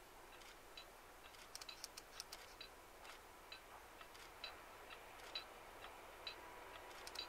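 Near silence: a distant train approaching, heard only as a faint rush that grows toward the end. Short high ticks repeat about once a second over it, with a few sharp clicks a couple of seconds in.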